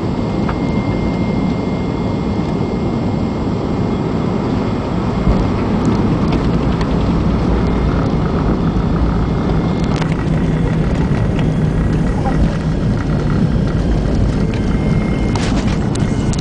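Cabin noise in an MD-80 airliner with one of its two engines shut down: a steady jet and airflow rumble. It gets a little louder with a short knock about five seconds in.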